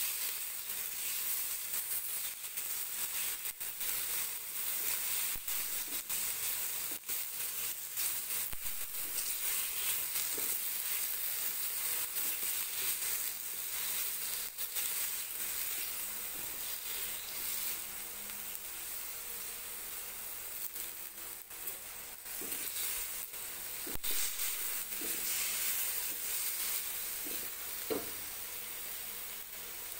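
Chicken liver pieces and garlic frying in hot oil in a wok, a steady sizzle, with the scrape and tap of a spatula against the pan as they are stirred.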